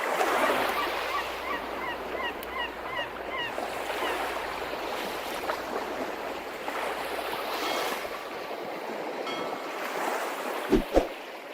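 Steady rushing noise like surf, with a bird giving a quick run of short repeated calls about one and a half seconds in.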